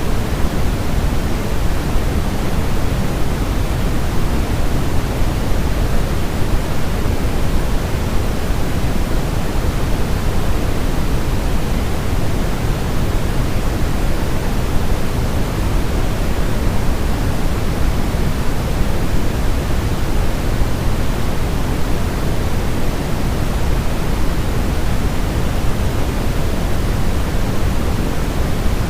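Steady electronic white noise: an even, unbroken rushing hiss, heavier in the low end than in the treble, with no change in level.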